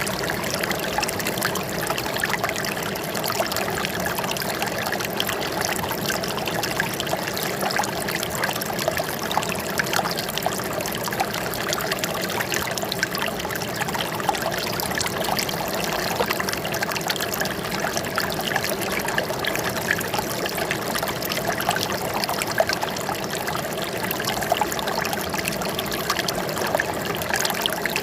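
Running water trickling and splashing steadily, a dense patter of small splashes with no break.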